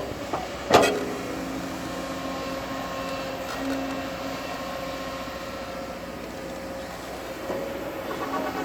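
Shantui bulldozer's diesel engine running steadily, with one loud sharp clank that rings briefly about a second in.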